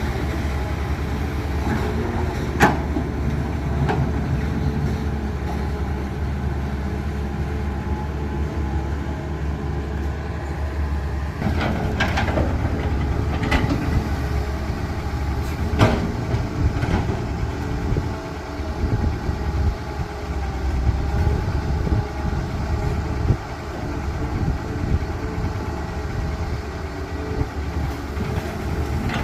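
Heavy construction machine's diesel engine running with a steady low rumble, with sharp metallic clanks now and then, several in the first half.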